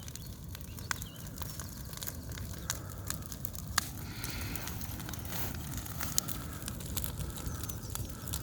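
Large bonfire of dry old wood burning, crackling with sharp pops scattered through, over a steady low rumble.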